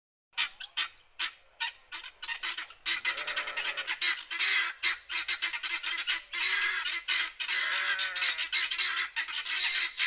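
Birds squawking with harsh calls. A few separate squawks come first, and from about two seconds in they thicken into a dense, continuous run of overlapping calls.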